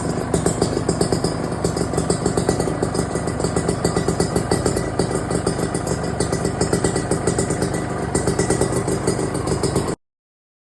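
Kawasaki Ninja 150RR two-stroke single-cylinder engine idling steadily with an even, rapid pulsing, warming up after a morning start. It cuts off abruptly near the end.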